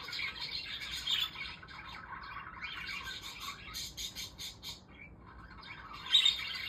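Pet budgerigars chirping and warbling in a continuous chatter, with a quick run of clicking chirps about halfway through.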